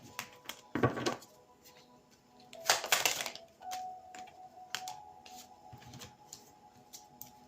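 Tarot cards being handled and laid down on a table: light clicks and taps, with two short swishes of cards sliding about a second and about three seconds in, over faint background music.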